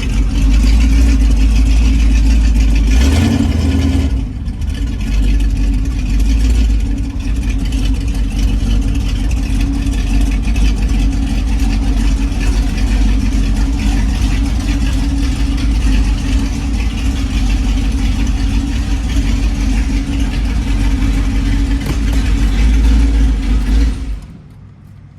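Car engine and exhaust running with a strong, steady low drone, then switched off near the end.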